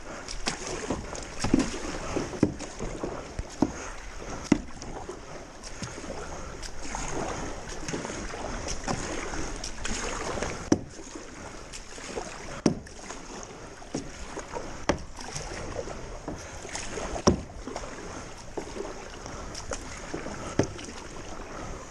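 Paddling a small boat through street floodwater: splashing strokes with irregular sharp knocks, about one every second or two.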